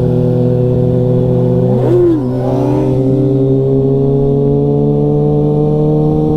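Sportbike engine at a steady cruise, its pitch creeping slowly up under light throttle, with a short rev that rises and falls about two seconds in.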